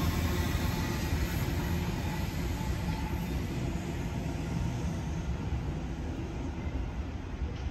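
Sydney Trains double-deck electric train rumbling along the rails past the platform, the noise slowly fading as it pulls away.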